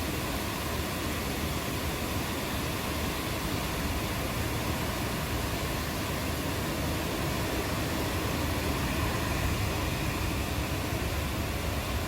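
Steady rain falling: an even, unbroken hiss with a low rumble underneath and no distinct thunderclap.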